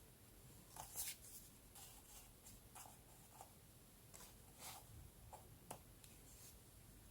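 Faint, scattered short scratches and rustles of paper being handled while decorating a journal, a few soft strokes a second apart.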